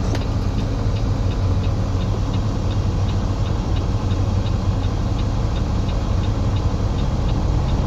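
Semi truck's diesel engine running steadily, a low drone heard from inside the cab, with a light, even ticking about three times a second over it.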